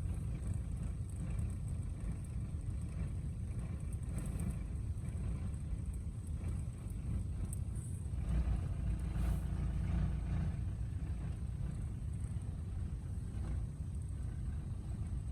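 Motor vehicle running, a steady low rumble that grows louder for a couple of seconds about eight seconds in.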